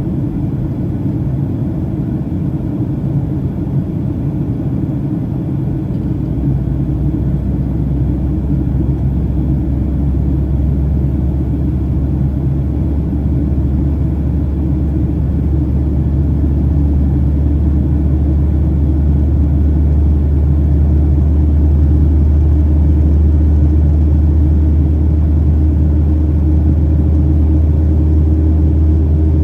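Boeing 737-800 cabin noise: the steady rumble of its CFM56 engines and airflow heard from inside the cabin. A deep low drone grows stronger about six seconds in, and the overall level rises slowly after that.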